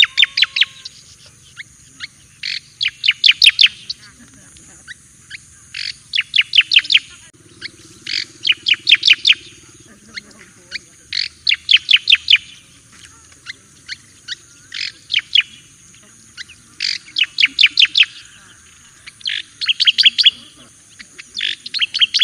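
Striated grassbird (cica koreng jawa) singing: quick runs of sharp, loud notes in short phrases, repeated every one to two seconds.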